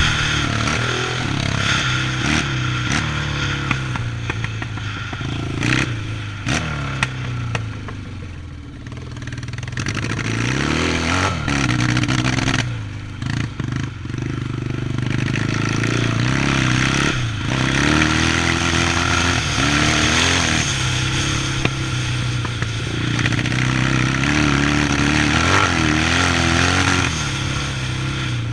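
Yamaha 650 vintage motocross bike's engine revving up and easing off again and again as it is ridden, with a dip in the engine note twice along the way and scattered clattering knocks.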